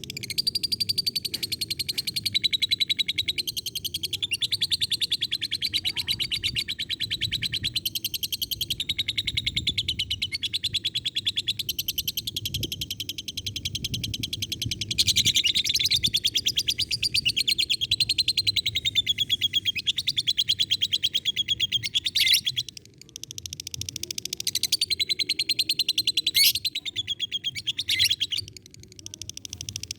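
Lovebird singing a long, unbroken chattering trill of very rapid, high notes (the 'ngekek panjang' prized by lovebird keepers), wavering in pitch, with short breaks a little past the middle and near the end.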